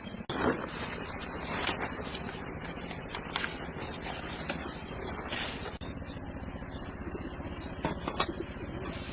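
Rural outdoor ambience: birds calling, with a steady high insect whine and a few light knocks. The sound drops out briefly twice, about a third of a second in and a little before six seconds.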